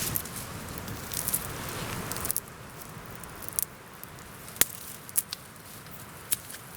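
Dry pine twigs and needles rustling for about two seconds, then quieter, with a few sharp snaps of small twigs.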